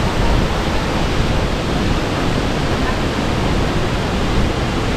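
Waterfalls at Krka, a loud, steady rush of falling water.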